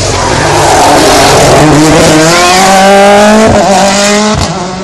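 Rally car at a hairpin, its engine revving hard and rising in pitch as it accelerates out of the bend, very loud, with a brief dip partway through and the sound falling away near the end.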